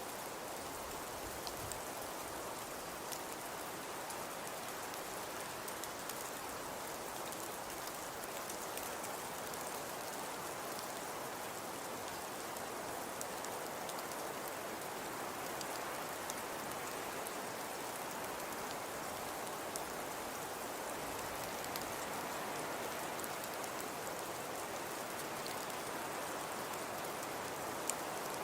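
Fireplace crackling: a steady soft hiss with many small scattered pops and ticks.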